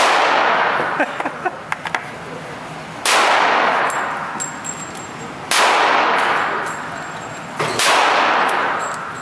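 Four gunshots about two to three seconds apart. Each is a sharp crack followed by a long ringing echo that dies away over a couple of seconds.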